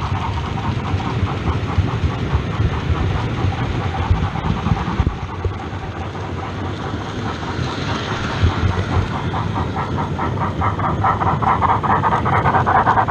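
OO gauge model train running on the track, its wheels making a fast, even clicking over the rail joints. The clicking grows louder near the end as the train comes closer.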